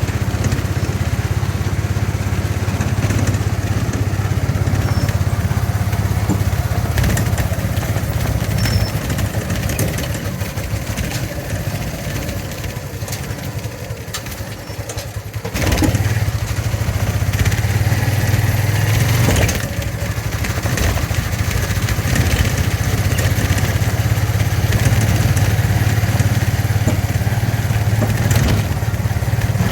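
Motorcycle engine running steadily while riding. It goes quieter for several seconds about a third of the way in, then comes back up suddenly about halfway through.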